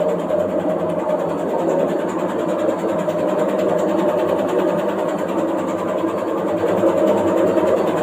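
Washing machine running with a steady mechanical noise while it shakes in place, the fault the owner is showing.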